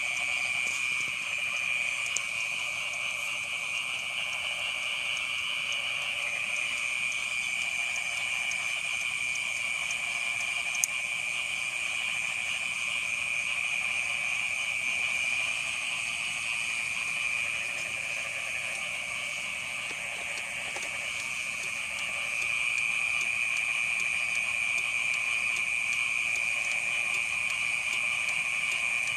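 Dense chorus of frogs calling over one another at night, a continuous high-pitched trilling that grows a little louder about 22 seconds in. A single sharp click sounds about eleven seconds in.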